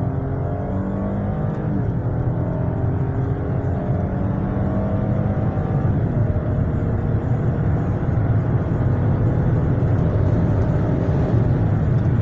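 Chip-tuned Lexus RX350's 3.5-litre V6 heard from inside the cabin under full-throttle acceleration. The engine note climbs in pitch, drops at an automatic upshift about 2 seconds in and another about 6 seconds in, then climbs again.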